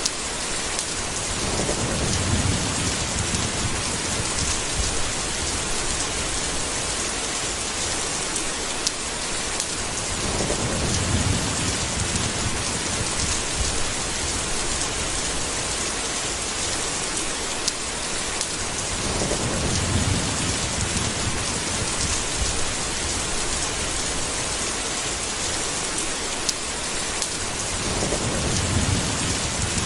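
Steady rain with four low rolls of thunder, about nine seconds apart.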